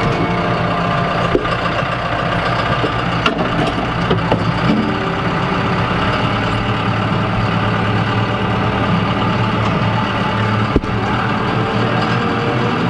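Farm tractor engine running steadily, with a few short clunks and knocks.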